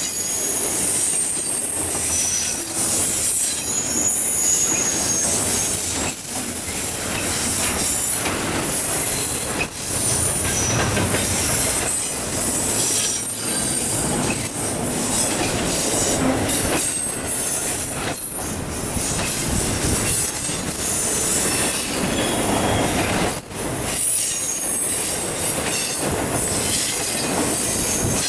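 Freight cars of an autorack and intermodal train rolling past, steel wheels squealing high-pitched and clicking irregularly over the rail.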